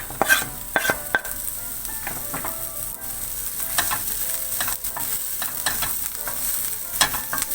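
Chopped onion and garlic sizzling in hot olive oil in a frying pan, with a utensil stirring them and clicking irregularly against the pan.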